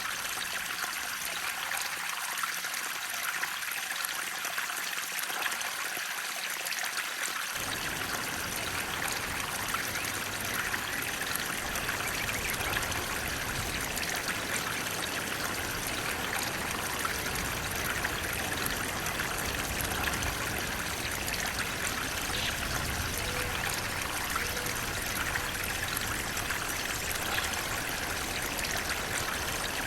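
Flowing water rushing and trickling steadily, like a stream or small waterfall. About seven seconds in, a deeper rush joins the brighter splashing and carries on.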